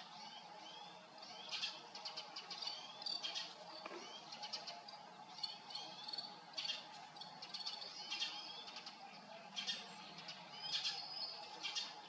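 Small birds chirping: quick clusters of short, high-pitched notes and little upward-sweeping calls, coming every second or so, over a faint steady hum.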